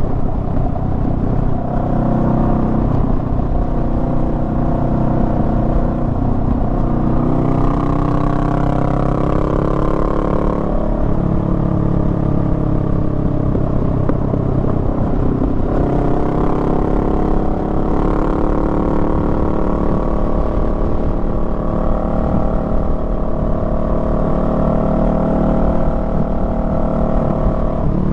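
Honda Rebel 500's parallel-twin engine running under way, its pitch climbing as it pulls and dropping back a few times as the revs change between corners.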